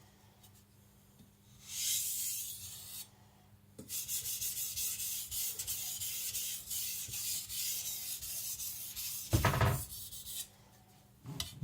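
Steel nakiri edge scraping across a wet Japanese waterstone: one stroke about two seconds in, then a run of quick, light strokes that strop the burr off the edge. There is one brief louder thud near the end.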